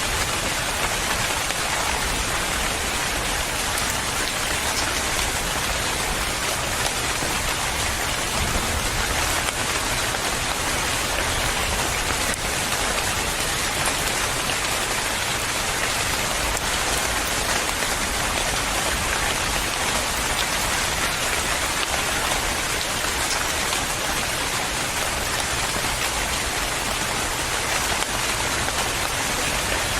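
Steady rain falling on a surface: an even hiss of many raindrops with no breaks or changes.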